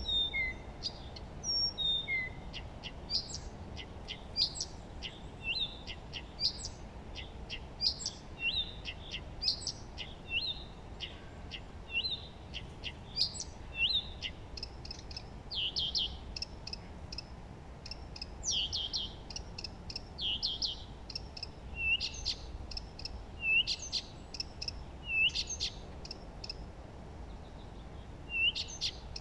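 Songbirds chirping and singing: short, quick, high calls of several kinds follow one another without pause, over a faint steady hiss.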